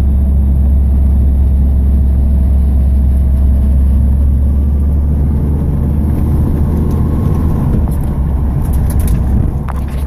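1987 Pontiac Trans Am's 305 LB9 V8 running while the car is driven, heard from inside the cabin as a loud, steady low drone. The engine is still warming up from a cold start.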